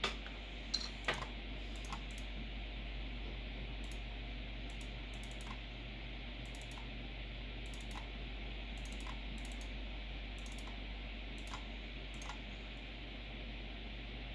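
Scattered keyboard clicks, a few sharper ones in the first two seconds and then fainter ones about once a second, over the steady whir of a PC's cooling fans.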